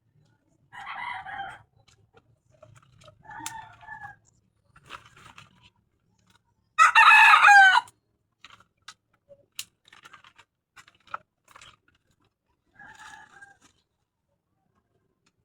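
Chickens calling, with one loud rooster crow lasting about a second roughly seven seconds in, and a few shorter, quieter calls before and after.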